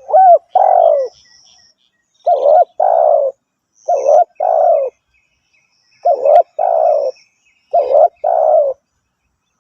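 Spotted dove cooing: five phrases of two or three coos each, coming about every two seconds.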